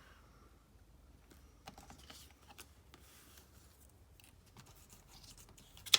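Light taps, clicks and soft rustling of paper and card pieces being handled on a craft table, with one sharper click just before the end.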